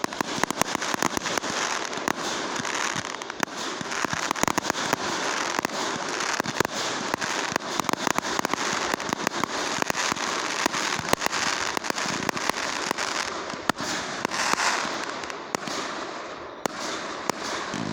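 Fireworks going off nonstop: a dense, rapid crackle of sharp pops and bangs with no break, thinning a little near the end.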